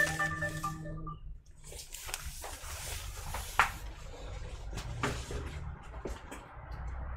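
Marimba-like background music ends about a second in, followed by scattered clicks and rustling from objects being handled, with a sharp click near the middle and another a little later.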